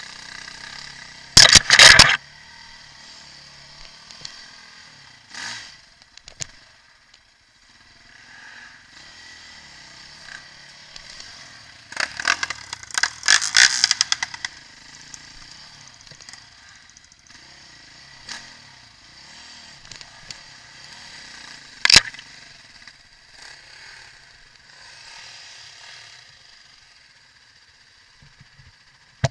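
Motocross dirt-bike engines running at a distance as a steady high buzz. There are two loud, distorted bursts, one just after the start and one around the middle, and a single sharp crack about two-thirds of the way through.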